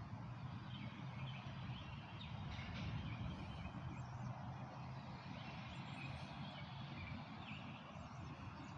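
Street ambience: a steady low rumble of distant traffic, with faint bird chirps scattered through it.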